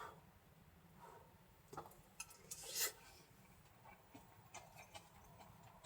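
Quiet handling sounds: scattered light clicks and taps, with a brief rubbing rustle about two to three seconds in.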